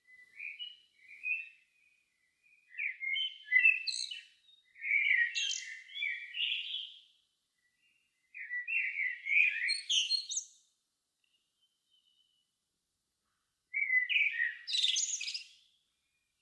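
A songbird singing phrases of quick, warbling notes, each lasting a couple of seconds, with pauses of a second or more between them.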